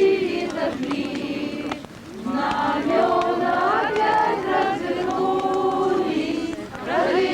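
A group of voices singing together in chorus, in sung phrases with short breaks about two seconds in and again near the end.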